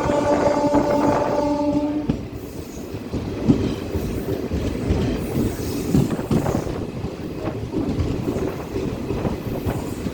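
Train running on the rails: a steady rumble with irregular knocks of wheels over rail joints. A train horn sounds one held note and stops about two seconds in.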